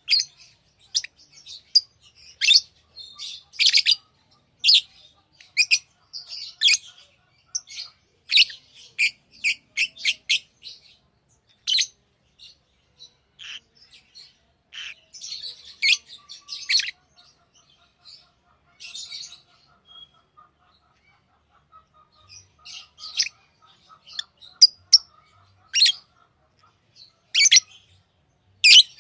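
Pet lovebirds chirping: many short, shrill calls in irregular bursts, with a quieter lull in the middle.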